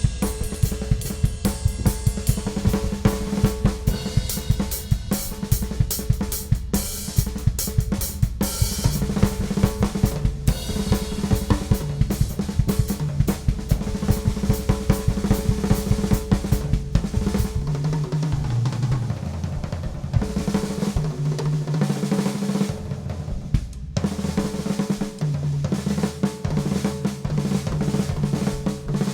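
Ludwig Classic Maple drum kit with a Supraphonic snare and Paiste cymbals, played freely at a steady pace: snare, bass drum, hi-hat and cymbal crashes in the first part. Over the second half it turns to busy fills and rolls around the toms, whose strokes step between several pitches.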